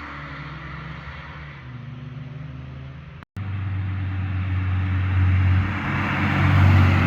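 Car engines passing on a road: one car's exhaust fades as it moves away, then after a sudden break about three seconds in, another car's engine, deeper and louder, comes closer and grows louder.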